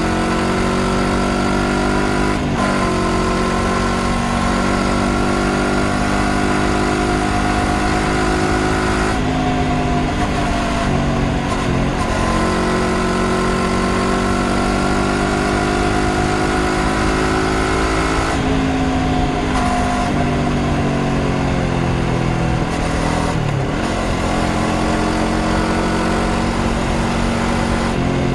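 Honda CBR500R's 471 cc parallel-twin engine under way, its pitch climbing slowly and stepping at a few gear changes, with steady wind rush.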